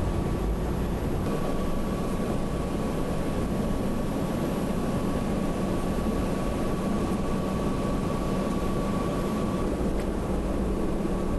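Steady in-flight cabin noise of an E-3A AWACS aircraft: an even rush of engines and airflow with a thin, steady high whine over it.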